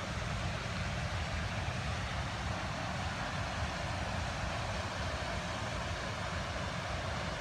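Large park fountain's water jets spraying and splashing down in a steady rushing hiss, with a low rumble underneath.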